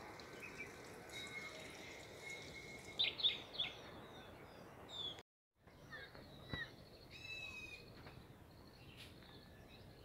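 Small birds chirping over a steady outdoor background hiss, with a few loud, quick chirps about three seconds in and a fast trill a little later. The sound cuts out briefly about halfway through.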